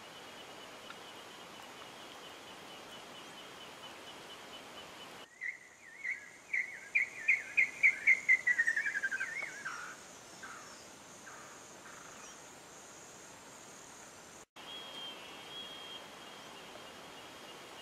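A bird calls a loud series of notes that speed up and fall in pitch, then trails off into a few fainter notes, over a steady high insect trill.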